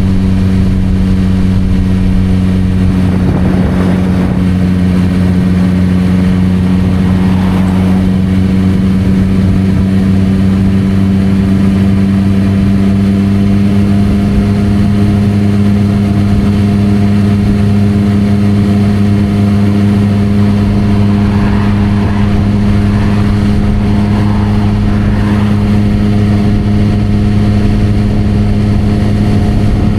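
Suzuki GSR600 inline-four motorcycle running through an aftermarket Dominator exhaust, holding a steady engine speed with a constant, level pitch throughout.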